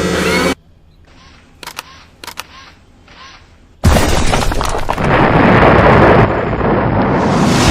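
Dubbed-in action sound effects: a loud effect cuts off about half a second in, a few faint clicks follow, then about four seconds in a sudden loud explosion-like crash breaks into a sustained rumble, with a rising hiss near the end.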